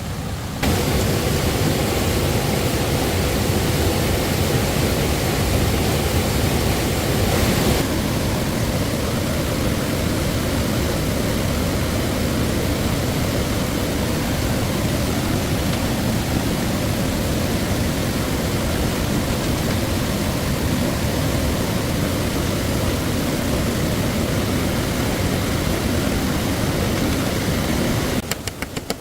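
Steady rushing of stream water. It cuts in about half a second in, shifts slightly near eight seconds, and drops away just before the end.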